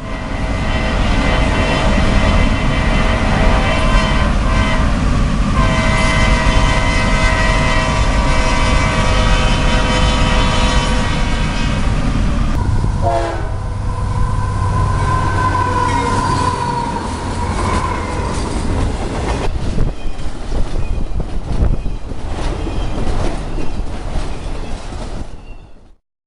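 CSX freight locomotive sounding its horn in long blasts with short breaks as it crosses the road. About halfway through the horn stops, leaving the rumble and clatter of the tank cars rolling over the rails. The sound cuts off abruptly near the end.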